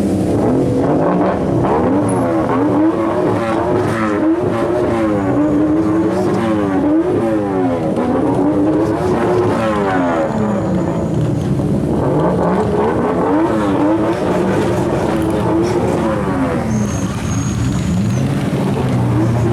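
Turbocharged drift car engine revving hard, its pitch climbing and dropping again and again, in quick swings of several per second in places.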